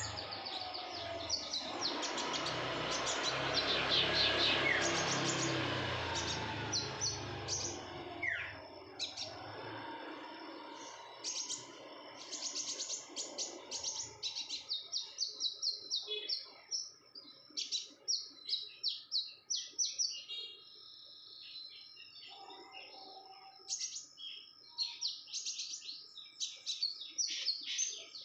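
Female konin songbird in breeding condition calling busily: runs of quick, high, short chirps repeated again and again. A low rumble of background noise underlies the first third and drops away about ten seconds in.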